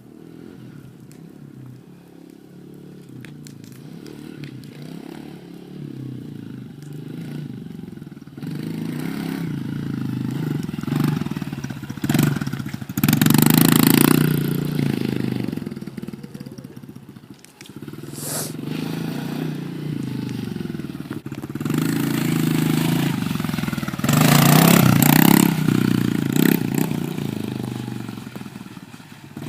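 A 110cc single-cylinder four-stroke dirt bike engine revving up and down as the bike is ridden around, rising and falling in pitch and loudness. It is loudest twice, about halfway through and again near the end, with a dip in between.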